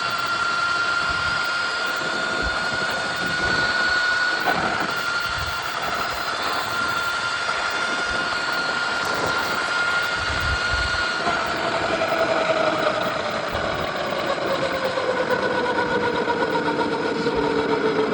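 Electric dirt bike's motor whining at full throttle on a top-speed run, over a constant rush of wind and road noise. The whine holds high and creeps slightly upward for the first two-thirds, then falls steadily in pitch as the bike slows.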